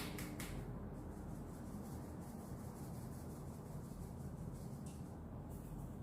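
Maida flour being sifted through a hand sieve: a quiet rubbing and light rapid scraping, with a few sharper taps at the start and about five seconds in.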